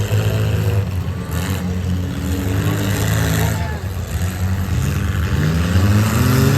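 Mid-size race truck engines running at speed, with one engine revving up in rising pitch near the end.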